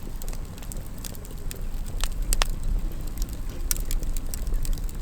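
Wood campfire crackling with sharp irregular pops, over a low rumble of wind on the microphone.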